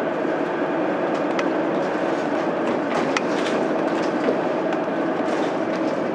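Mitsubishi Fuso Aerostar bus's 6M70 inline-six turbodiesel running steadily under way, heard from inside the bus, over road noise with scattered light clicks and rattles.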